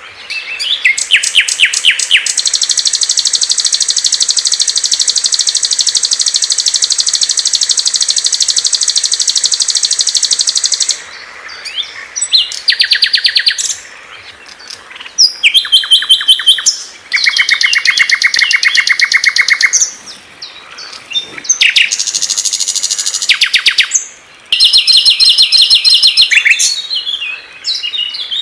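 Small songbirds singing in rapid, high-pitched trills and chirps. One long unbroken trill lasts about nine seconds, then shorter trilled phrases follow with brief pauses between them.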